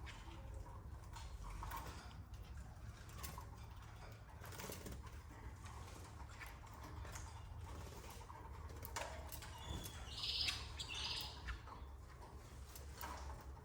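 Canaries in a breeding cage: faint rustling and clicking from movement, with two short high chirps about ten seconds in, over a steady low hum.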